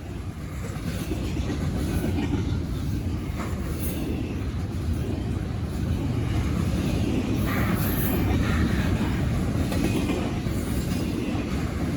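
Loaded double-stack intermodal freight train rolling past, its wheels on the rails making a steady rumble that builds over the first couple of seconds and then holds.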